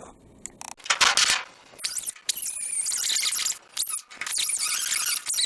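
Angle grinder with a cut-off wheel cutting through the sheet-steel floor of a truck bed: a short burst about a second in, then steady cutting with a high, wavering squeal from about two seconds in, broken off briefly twice.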